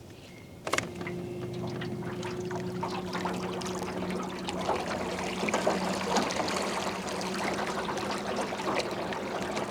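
A click just under a second in, then a small boat motor runs with a steady hum while water splashes and trickles along the hull as the boat moves.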